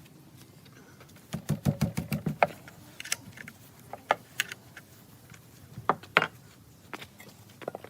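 A series of light clicks and knocks, like small hard parts or tools being handled: a quick run of taps a little over a second in, then single clicks every second or so.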